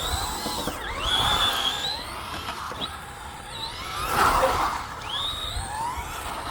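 Brushless electric motor of a Traxxas Ford Fiesta ST Rally VXL RC car whining up and down in pitch as the throttle is worked, with tyres scrubbing on tarmac, loudest a little past the middle.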